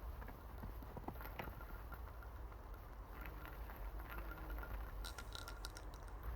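Scattered soft crunches and knocks of snow being handled while clearing snow off garden netting. A quick run of sharp clicks comes about five seconds in, over a low wind rumble on the microphone.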